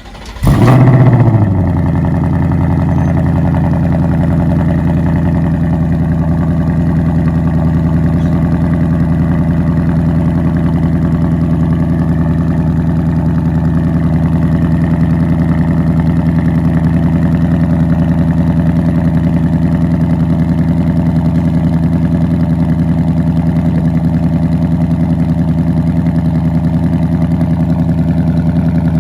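2026 Ford Mustang GT's 5.0-litre Coyote V8 starting up. It flares briefly at the start, with the pitch falling as it settles, then holds a steady idle.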